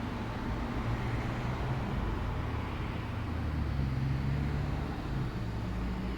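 Steady low rumble of motor vehicle traffic, with engine hum that shifts slightly in pitch.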